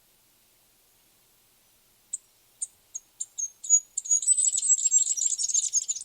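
Small songbird singing: a few sharp, high chips that come faster and faster, running into a rapid high trill about four seconds in that cuts off suddenly.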